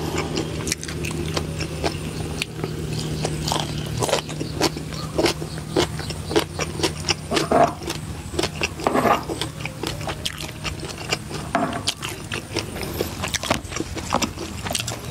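Close-up mukbang eating sounds: a mouthful of spicy green papaya salad chewed with many short, crisp crunches and wet mouth noises. A steady low hum runs underneath.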